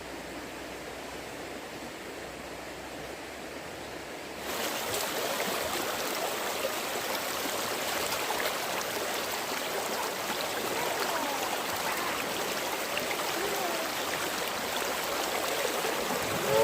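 Fast-flowing stream water rushing steadily, turning louder and brighter about four and a half seconds in.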